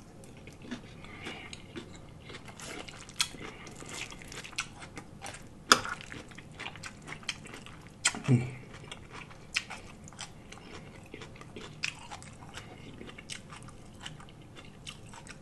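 Close-miked eating sounds: a person chewing with many wet, smacking mouth clicks, and a short hum about eight seconds in.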